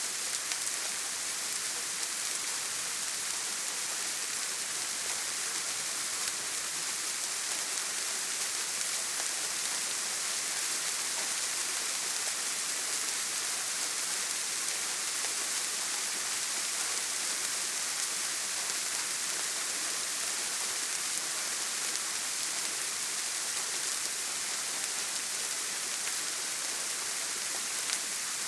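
Steady rain drumming on a tin roof: an even, dense hiss with faint individual drop ticks.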